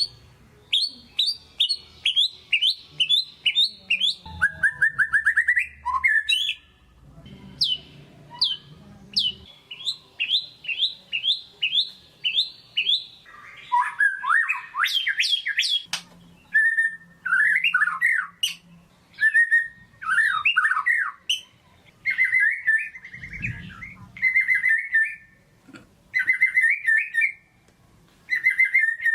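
White-rumped shama singing a long, varied song: fast runs of repeated rising notes, buzzy warbled phrases and clear whistled notes, phrase after phrase with short pauses between.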